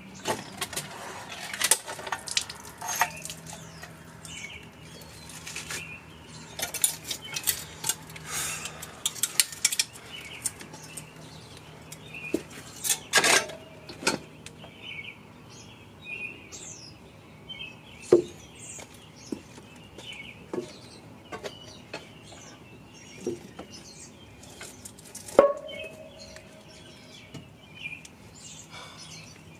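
Hand tools and metal engine parts clinking and clanking during the teardown of a BMW M54B30 engine. The knocks come scattered, with a dense run of clicks about seven to ten seconds in, and sharper ringing clanks near thirteen and twenty-five seconds.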